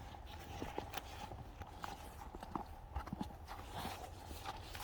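Faint, irregular footsteps crunching in fresh snow.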